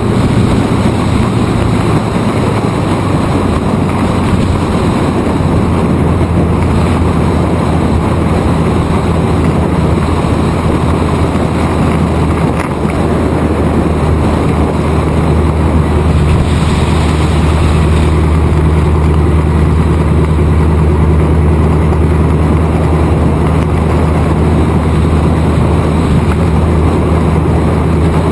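Open-wheel Indy-style race car's engine running flat out on an oval, held at its governor under full throttle, with wind rushing over the microphone. The engine note shifts a few seconds in, then holds steady.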